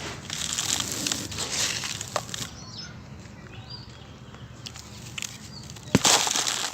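Dry sand-cement chunks crushed and crumbling into powder in gritty bursts, quieter in the middle, then a sharp smash about six seconds in followed by more crumbling.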